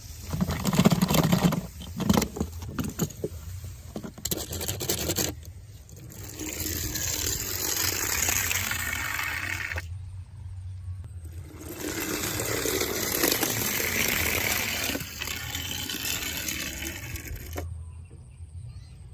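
Toy cars clattering and knocking together in a quick run of hits over the first five seconds, then two long stretches of continuous scraping noise of about four seconds each.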